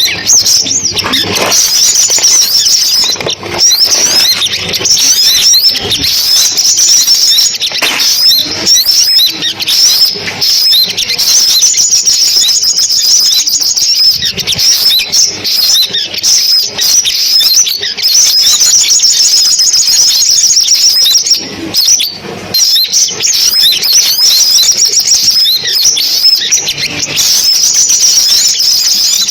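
Recorded sunbird song of the kind played as a speaker lure for trapping: continuous rapid, high-pitched twittering and trills with no pause.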